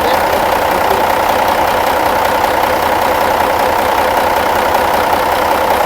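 Vehicle engine idling steadily, an even running noise with no change in speed.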